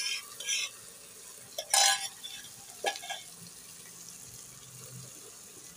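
Onions and tomatoes frying in a pan with a faint steady sizzle, broken in the first three seconds by several scrapes of a spoon and spatula against the pan and a steel bowl, the loudest about two seconds in, as yogurt is added.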